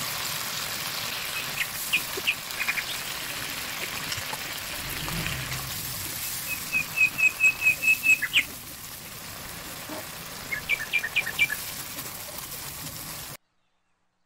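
Onions and sauce sizzling in a frying pan as they are stirred, with a small bird chirping in the background: a few chirps, then a quick run of about eight loud chirps, then another short cluster. The sound cuts off abruptly near the end.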